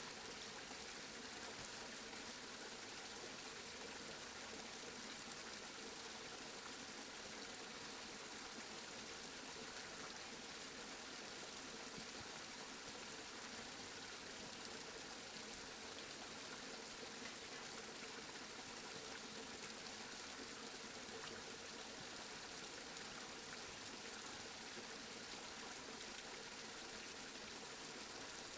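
Steady, even rain, a constant hiss of falling drops with no thunder or other events.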